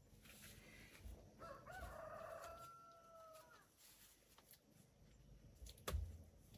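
A rooster crowing once, faint, with a wavering start and then a long held note lasting about two seconds. A sharp knock comes near the end.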